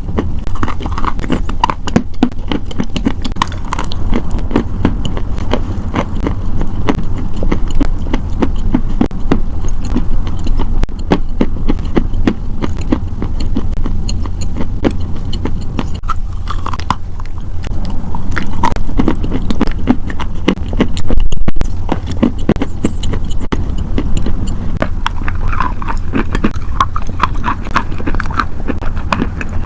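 Close-miked crunching and chewing of crisp food, with rapid crackly bites and chews throughout, over a steady low hum.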